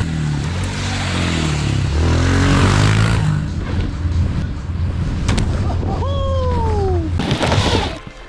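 A pitbike's small single-cylinder engine revving up and down. About six seconds in comes a high whine that falls steadily in pitch.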